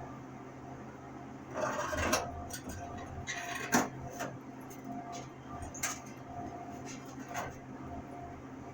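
Handling noises during a tail-light fitting: two scrapes and several sharp knocks, the loudest a bit under four seconds in, over a steady hum.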